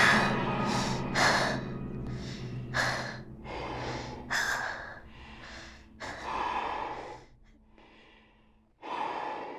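A person breathing hard in ragged gasps, quick breaths at first and then fewer and further apart.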